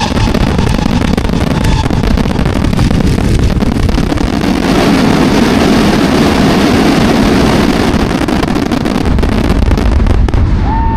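Dense fireworks barrage: rapid booms and crackles running together into a continuous loud rumble.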